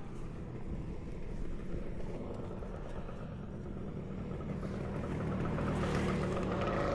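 Motorcycle engine running with road and wind noise while riding, a steady low rumble; an engine tone grows louder toward the end.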